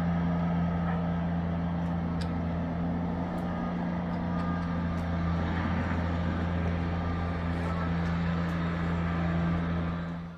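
A vehicle engine running with a steady low hum that cuts off abruptly at the end.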